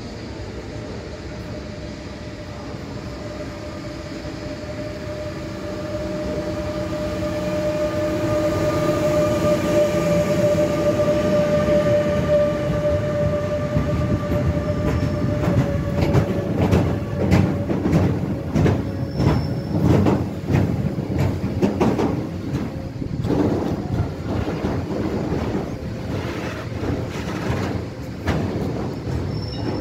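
An electric locomotive hauling a freight train approaches with a steady whine that grows louder. From about halfway, the wagons loaded with steel wire coils roll past, their wheels clicking rhythmically over the rail joints.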